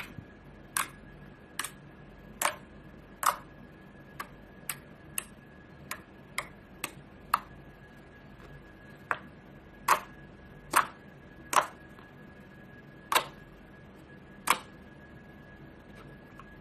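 Slime being squeezed and pressed, making irregularly spaced sharp popping clicks, about twenty of them, some much louder than others, over a faint steady high whine.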